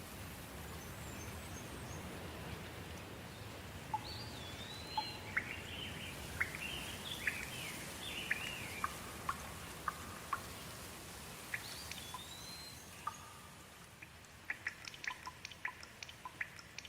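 Soft rain falling as a steady hiss, with a bird chirping repeatedly through the middle, including two rising-and-falling calls. Near the end the hiss eases and separate drops drip in quick, irregular ticks.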